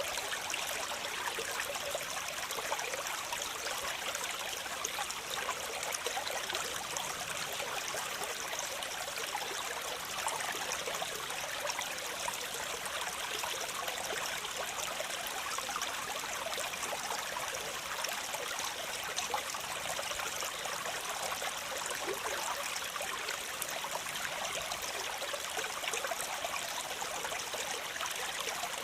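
Waterfall: a steady, unbroken rush and splash of falling water, bright and hissy with little deep rumble.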